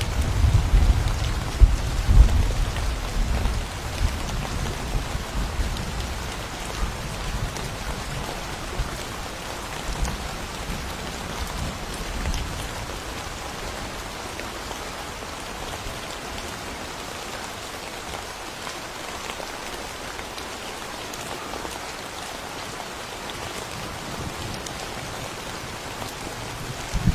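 Steady rain falling, with a low rumble of thunder in the first few seconds that dies away, and another rumble of thunder starting at the very end.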